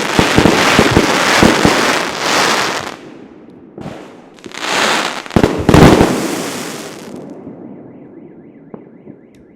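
Fireworks: rapid crackling bangs and shell bursts for about three seconds, a short gap, then a final cluster of loud bangs around five to six seconds in that echoes away. A faint warbling alarm starts up near the end.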